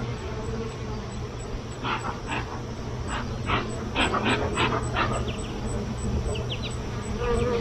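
Beekeeper's smoker bellows being pumped, a quick series of short puffs of air, about ten at two to three a second, over a steady low hum.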